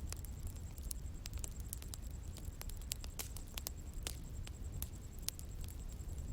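Wood bonfire burning, with irregular sharp crackles and pops over a steady low rumble of the flames.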